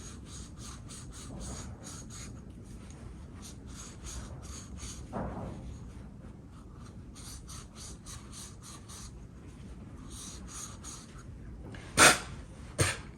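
Hand scrubbing of an aluminium brake caliper's pad seat with a fine Scotch-Brite nylon abrasive pad: quick back-and-forth rubbing strokes, several a second, in short runs. Near the end come two sharp knocks less than a second apart, the loudest sounds.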